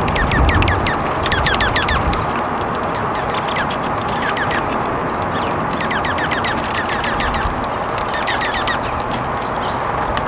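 Small songbirds chirping in quick runs of short falling notes, several bursts one after another, over a steady background hiss.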